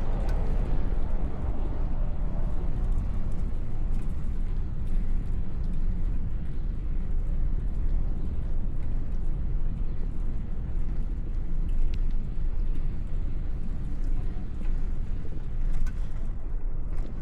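Steady low wind rumble on the microphone of a moving bicycle, mixed with road traffic noise.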